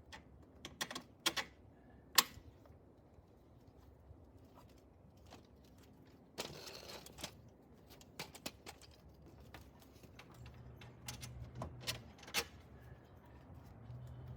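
Scattered sharp clicks and taps of metal hand tools and parts being handled, with one short scrape about six and a half seconds in.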